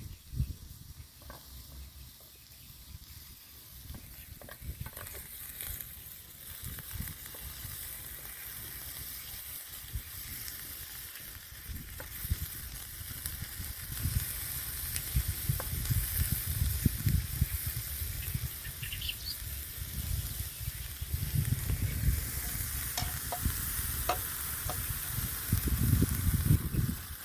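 Minced meat and onions sizzling as they fry in a pan, stirred with repeated scraping and knocking of the utensil against the pan. The sizzle grows louder about halfway through.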